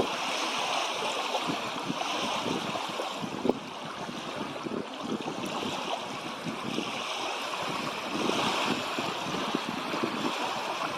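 Wind-driven lake water lapping and splashing, a steady rushing noise of wind and small waves that rises and falls.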